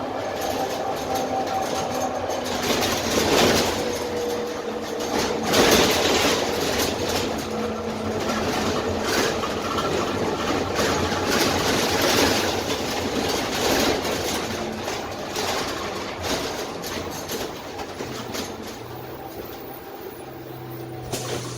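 Lower-deck cabin noise of a Dennis Trident double-decker bus under way: its Cummins ISMe diesel engine and road noise, with frequent knocks and rattles from the body. It quietens near the end, leaving a low steady hum.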